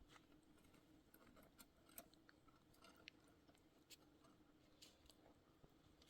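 Near silence, with a few faint scattered clicks and ticks over a low steady hum.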